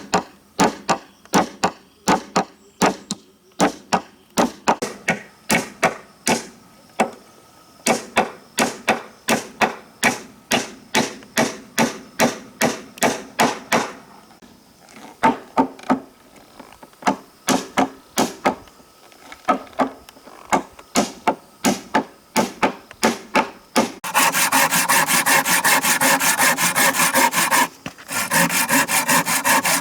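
Wood being struck over and over, sharp knocks about two to three times a second with a short lull partway through. Then the knocking gives way to a steady rasping of wood being sawn, which stops once for a moment near the end and starts again.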